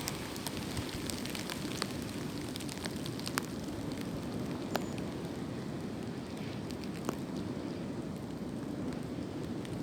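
Wind blowing through tree branches: a steady low rushing, with scattered light ticks and crackles from the swaying branches and leaves.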